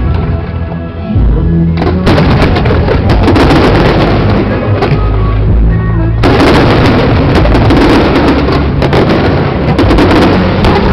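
Aerial fireworks bursting and crackling in dense volleys over music, the crackle thickening about two seconds in and again past the middle.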